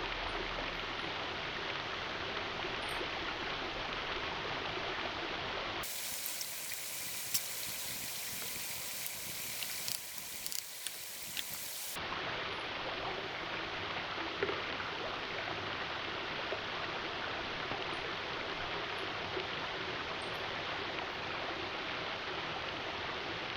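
Steady rushing of running water, like a nearby stream. From about six to twelve seconds in, a brighter, hissier sound with a few sharp crackles takes its place.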